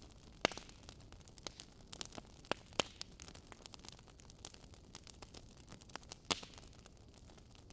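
Wood fire crackling in a fireplace: irregular small crackles over a faint hiss, with a few sharper pops, the loudest about half a second in, near three seconds and about six seconds in.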